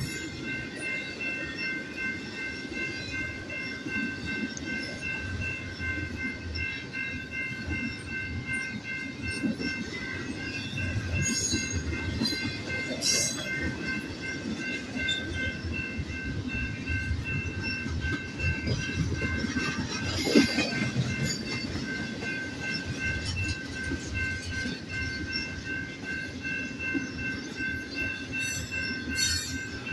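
BNSF double-stack intermodal train rolling past a grade crossing: a steady rumble and clatter of wheels on the rails, with scattered knocks and a sharp bang about twenty seconds in. Over it the crossing bell rings on and on in quick repeated dings.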